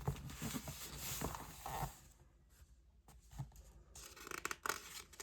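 Faint rustling and light clicks of glossy magazine pages being handled, with a quiet gap in the middle before a few more clicks.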